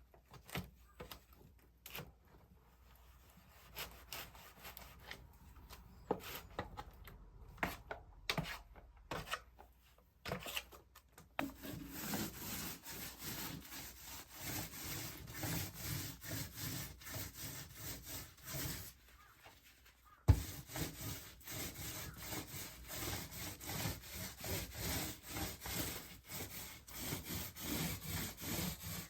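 Scattered light knocks, then fast, rhythmic back-and-forth rubbing strokes on a wooden surface. The strokes pause briefly about two-thirds of the way through, a sharp knock follows, and the rubbing resumes.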